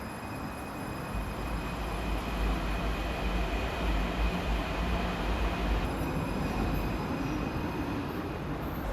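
Santiago Metro AS-02 train running between stations: a loud low rumble swells about a second in, with a steady high-pitched whine over the running noise.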